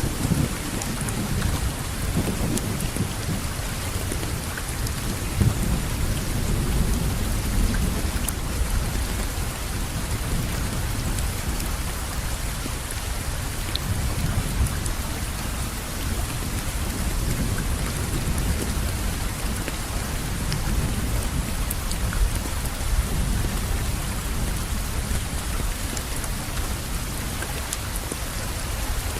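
Steady rain falling, with a low rumble of thunder underneath that is strongest near the start.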